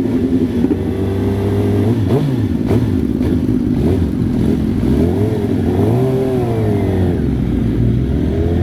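Sportbike engine running hard, its pitch climbing and dropping as it revs. There is a short rise and fall about two seconds in and longer swells between about five and seven seconds.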